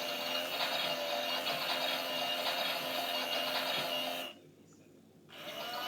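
Miele washing machine's drum motor running with a steady whine as it tumbles the wash. About four seconds in it stops for a second, then starts up again with a rising whine.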